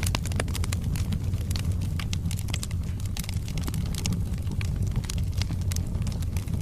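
Wood logs burning in a fireplace: a steady low rumble of the fire, with frequent sharp crackles and pops.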